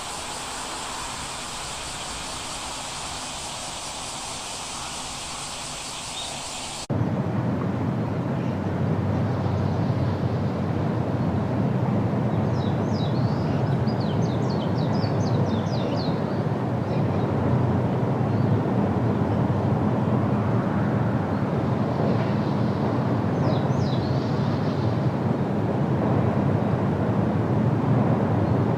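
Steady hissing background noise that cuts off abruptly about seven seconds in. It gives way to a louder, steady low rumble of outdoor ambience, with birds chirping in two short runs.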